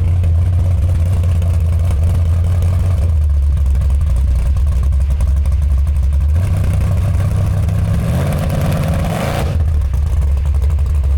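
1986 Chevrolet C10 pickup's engine idling steadily, then revved once about eight seconds in. The pitch rises for a second or so, then falls back to idle.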